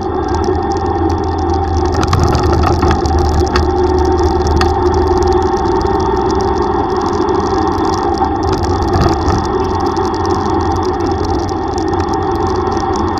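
Small single-cylinder motorcycle engine, a Yamaha YTX125, running steadily while riding, with road and wind noise.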